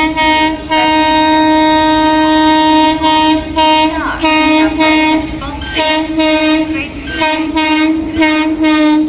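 Indian Railways locomotive horn: one long blast, then a quick run of about a dozen short toots, over the rumble of a train passing.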